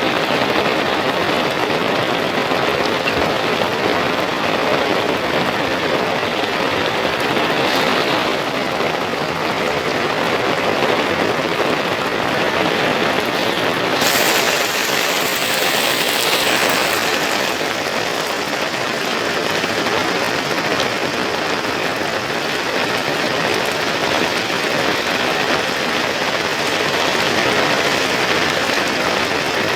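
Heavy rain falling in a steady, dense hiss, with a brief surge of brighter hiss about halfway through.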